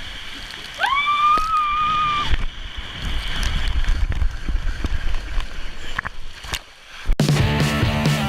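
A rider on a water slide gives one long, high-pitched scream about a second in, then water rushes and sloshes with a low rumble as they slide down. Music cuts in suddenly near the end.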